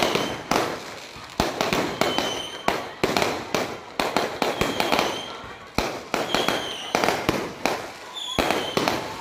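Aerial fireworks display: a rapid series of sharp bangs from shells bursting overhead, sometimes several a second, with short high whistles every second or two.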